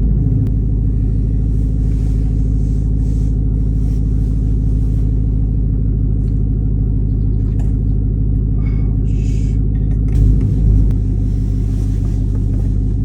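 Steady low rumble of a truck driving on the road, heard from inside the cab, with engine hum under it and two short bumps about ten seconds in.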